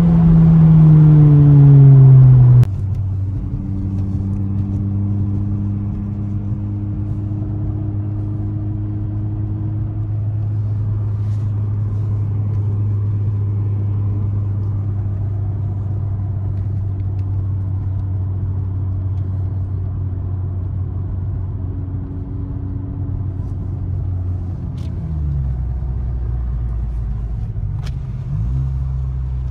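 Honda Civic Type R FK8's turbocharged 2.0-litre four-cylinder with a full 3-inch exhaust, heard from inside the cabin. The engine note starts loud and falls in pitch as the revs come down, then drops off suddenly about three seconds in. It settles into a steady low drone while cruising, and near the end the revs shift and begin rising again.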